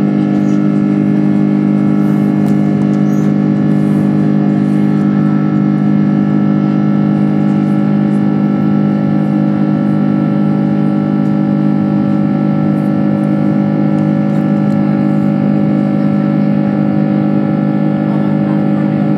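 Airbus A330-300's Rolls-Royce Trent 700 jet engines heard from inside the passenger cabin: a loud, steady drone with a strong low hum and many even tones above it, unchanging throughout.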